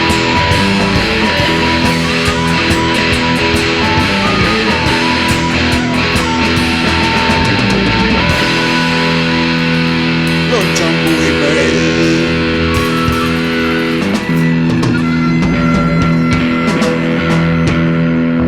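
Rock band playing an instrumental passage led by electric guitar, with no singing.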